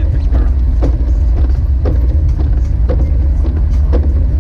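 Jeep Wrangler YJ driving, its engine and road noise making a steady low drone, with a regular beat-like knock about twice a second over it.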